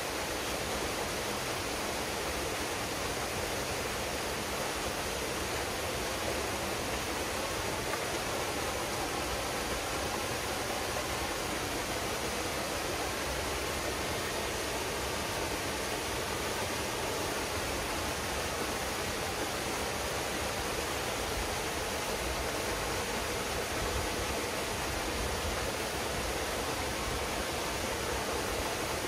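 Waterfall pouring steadily into a pool, a continuous even rush of falling water.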